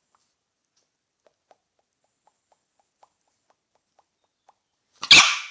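Faint light tapping, about four taps a second for a few seconds, then one loud, sharp dog bark near the end.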